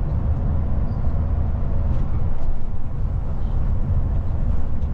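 Steady low rumble of a tour motorcoach on the road, heard from inside the passenger cabin.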